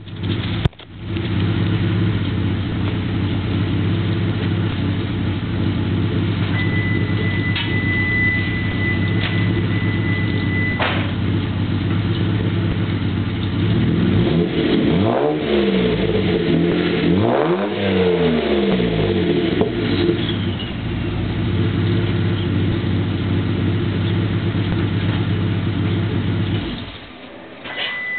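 1993 Mitsubishi 3000GT VR-4's twin-turbo V6 through a catless custom Magnaflow exhaust with a 3" downpipe: the engine starts about a second in and idles steadily. About halfway through it is revved twice, then it settles back to idle and is shut off near the end.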